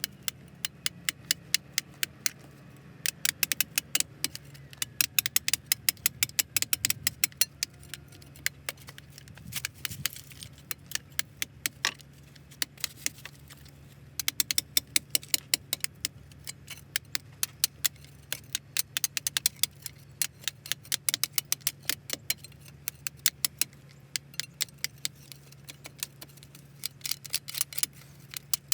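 Quick runs of light, sharp metallic clicks from hand tools working on the sprocket wheel's steel parts, stopping and starting every second or two, over a steady low hum.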